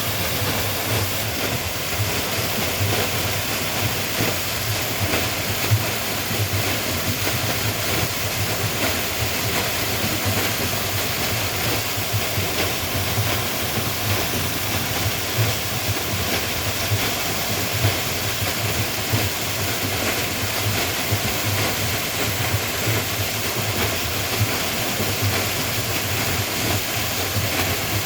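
Steady, unbroken rushing noise that spreads from low to very high pitch and holds the same level throughout.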